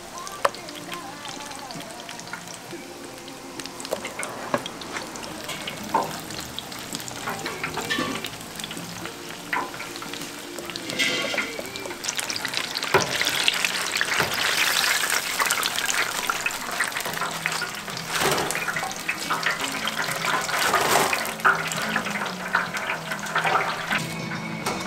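Food frying in hot oil at a Korean street-food stall, a dense sizzling hiss with scattered clicks of utensils, louder about halfway through.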